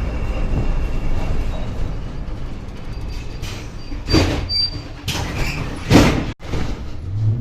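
A badly worn old tram running slowly with a steady low rumble, then several short hissing bursts and a brief high squeal in the second half. The sound drops out for a moment near the end.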